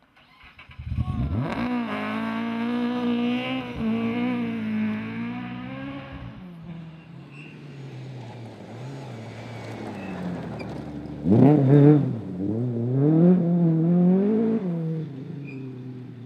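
Rally car engine at high revs, accelerating hard about a second in and again at about eleven seconds, its pitch rising and falling as the driver works the throttle.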